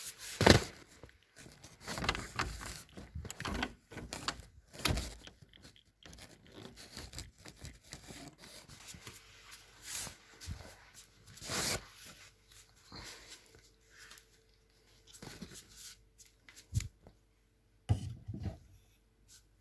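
Scattered knocks, scrapes and rustles of objects being handled, with a sharp knock about half a second in and quieter gaps between.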